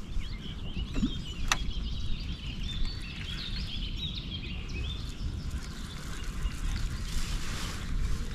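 Small birds chirping and twittering over a steady low background rumble, with a single sharp click about a second and a half in.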